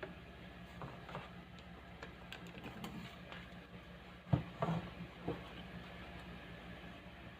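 Speaker giving off a steady low mains hum, with a few light clicks and knocks over it, the loudest a sharp knock about four seconds in followed by two smaller ones.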